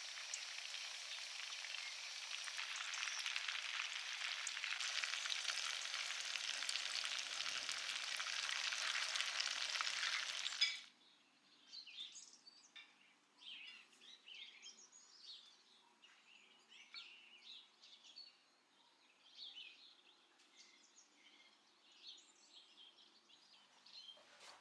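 Food frying in hot oil in a pan: a steady sizzle full of fine crackles, which cuts off abruptly about eleven seconds in. After that, faint scattered bird chirps.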